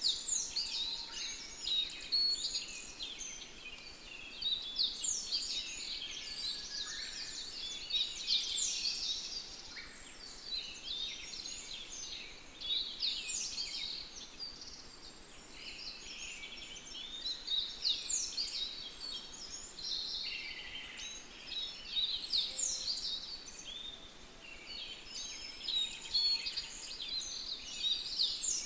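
Songbirds singing in a dense chorus: quick chirps and falling whistled notes, with song phrases starting again every few seconds over a faint steady background hiss.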